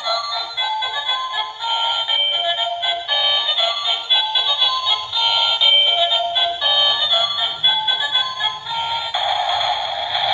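Battery-powered toy train playing a tinny electronic melody through its small speaker, one clear note after another. About nine seconds in, the tune gives way to a steady rushing noise.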